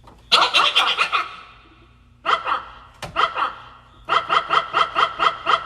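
A woman rapidly repeating a dog-bark imitation, "ruff ruff", in quick runs of short bursts, the last run about eight a second, that come out close to giggling.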